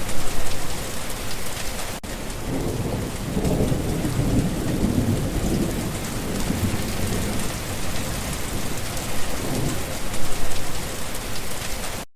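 Steady rain falling, with a low roll of thunder swelling about three seconds in and fading a few seconds later. The sound cuts off suddenly near the end.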